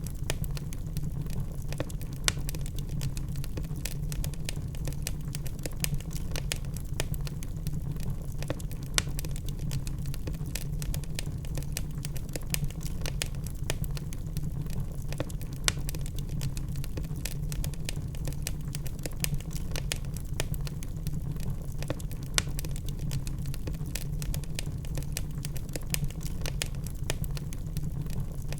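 Wood log fire crackling: irregular sharp crackles and snaps over a steady low rumble of the flames.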